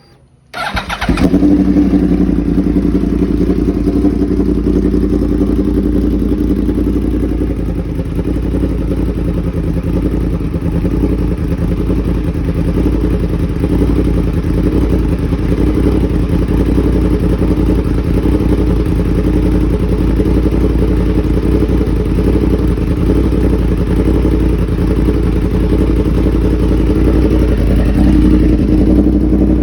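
2011 Yamaha R1's inline-four, exhaling through an aftermarket mid pipe and SC Project slip-on muffler, fires up about half a second in and then idles steadily. The idle eases slightly lower after about eight seconds and firms up again near the end.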